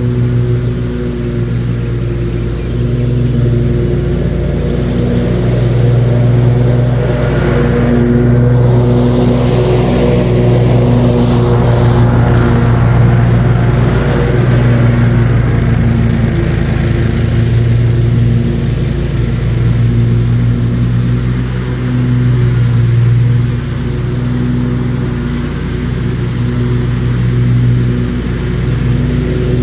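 John Deere riding lawn mower's engine running steadily with the blades cutting grass, its loudness swelling and easing a little as it works.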